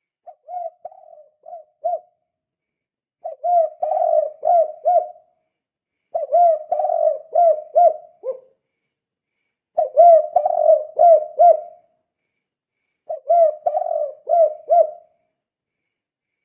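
Spotted dove (tekukur) cooing in the 'kuk 2' song style: five repeated phrases of several low coo notes, each phrase about two seconds long and about three seconds apart. The first phrase is fainter.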